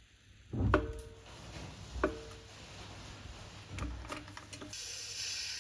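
Metal clanks as the rusted rear beam and differential assembly is lowered: two sharp knocks about a second apart, each with a short ringing tone, then a few lighter clicks and a soft hiss near the end.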